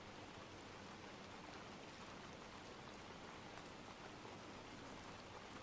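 Faint, steady rain ambience: an even hiss of falling rain with light patter.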